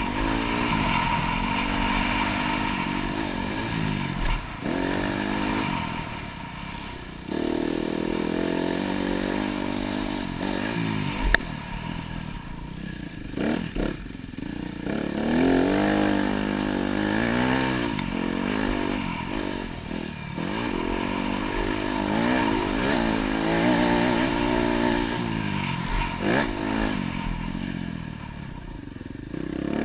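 Dirt bike engine revving up and dropping off over and over as the throttle is opened and closed, with a sharp knock about eleven seconds in.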